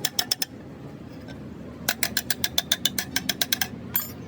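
Rapid mechanical clicking at about nine clicks a second, in two runs. The first dies away just after the start, and the second runs from about two seconds in to near four seconds, followed by one last click.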